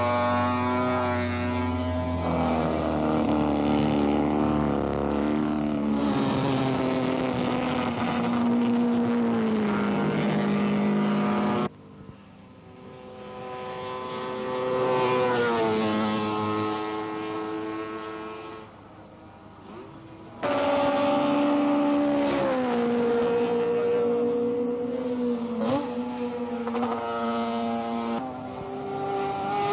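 Racing motorcycle engines at full speed, pitch rising and falling as the bikes accelerate, shift gears and pass. The sound cuts abruptly twice, about twelve and twenty seconds in. In between it is quieter, with one bike coming and going.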